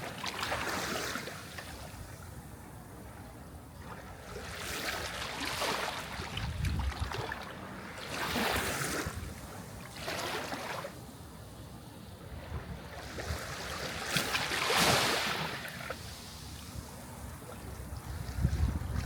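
Sea waves breaking and washing onto the shore, swelling in surges every few seconds, two of them with a deeper thud as the wave breaks.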